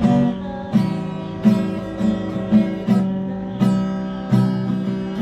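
Background music: acoustic guitar strummed in a steady rhythm, a chord struck about every three-quarters of a second.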